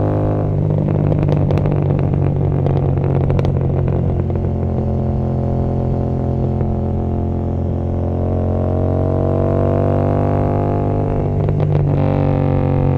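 Royal Enfield Continental GT 650's parallel-twin engine running through an Emgo cafe muffler, with a burst of exhaust popping and crackling for the first few seconds and again briefly near the end. In between the exhaust note drones steadily, then rises.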